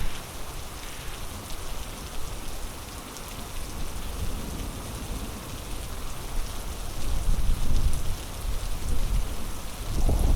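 Heavy rain falling steadily as a dense, even hiss. Low rumbling swells rise under it about seven seconds in and again near the end.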